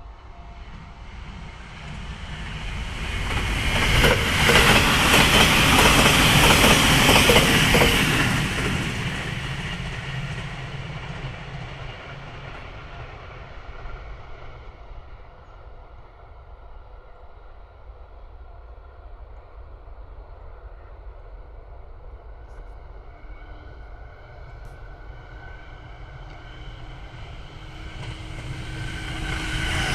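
An electric passenger train passes at speed, with wheels clicking over rail joints. It swells to its loudest a few seconds in and fades away over several seconds. Near the end a second train can be heard approaching on the other track.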